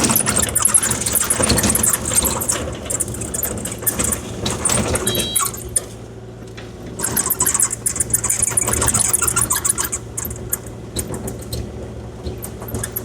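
Kubota KX040-4 mini excavator's diesel engine running steadily while its bucket scrapes and crunches through gravel, smoothing a driveway grade. It drops quieter for a moment about halfway through.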